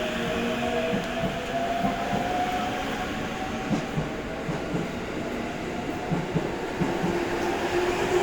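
E257 series electric train accelerating away, its traction motors whining in a tone that rises slowly in pitch, with wheels knocking over rail joints.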